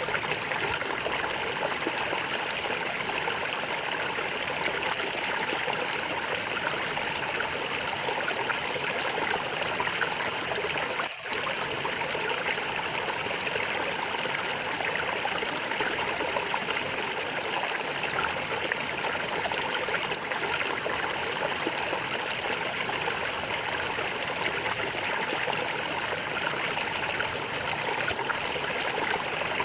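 Flowing water gurgling steadily, with a short drop in level about eleven seconds in.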